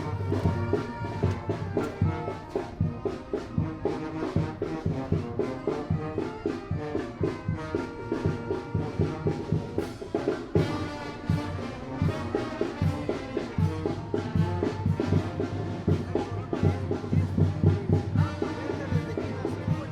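Tamborazo band playing live: trumpets and trombones carry the tune over the steady beat of the tambora drum.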